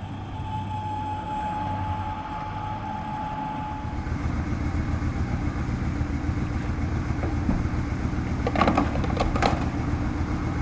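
Honda Africa Twin motorcycle's parallel-twin engine running while riding, with road and wind noise, getting louder about four seconds in as the bike picks up speed.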